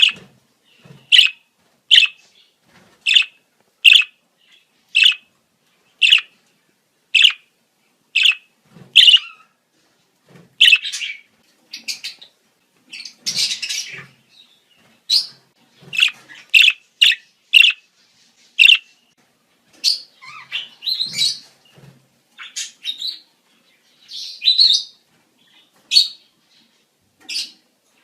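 Budgerigars calling in breeding season: a sharp chirp repeated about once a second, giving way about ten seconds in to denser, varied chirping and warbling chatter.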